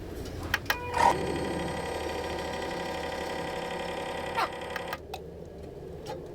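A small motor whirring steadily for about four seconds, starting just after a couple of clicks and stopping abruptly.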